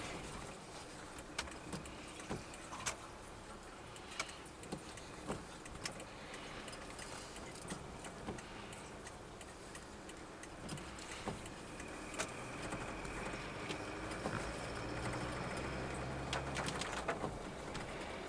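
A car heard from inside the cabin: the engine runs steadily with a low rumble, and irregular sharp ticks and taps are scattered throughout. The engine grows louder over the last few seconds.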